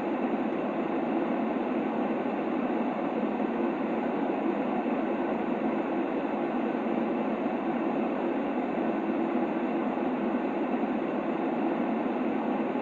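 Steady white noise for a baby's sleep: a constant, even hiss without bass that does not change.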